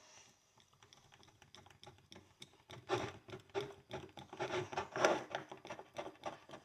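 A pick scratching and clicking inside a horseshoe's nail hole, digging out packed dirt: sparse light ticks at first, then a quick run of small scrapes and clicks from about three seconds in.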